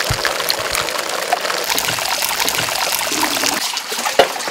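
Boiled soy milk pouring out in a steady, splashing stream, with a single knock near the end.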